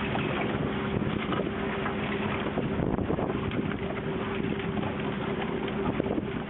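Boat engine running steadily, a constant hum with wind noise on the microphone.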